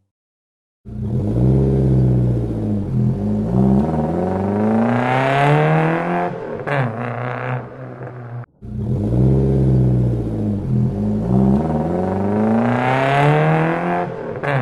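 Vehicle engine revving up and down again and again, its pitch rising and falling. It cuts in abruptly about a second in, breaks off sharply past halfway, then starts again with the same pattern of revs.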